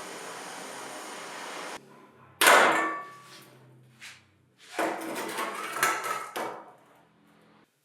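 A steady hiss cuts off about two seconds in. A loud metallic clank with a short ring follows, then a lighter knock and a run of clattering metal knocks as steel parts are handled and set down.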